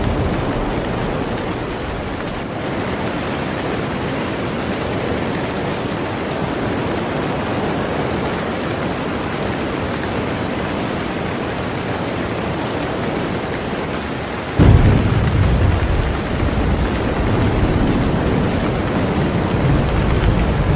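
Heavy rain falling steadily on a boat. About two-thirds of the way in, a deep rumble of thunder sets in suddenly and keeps going.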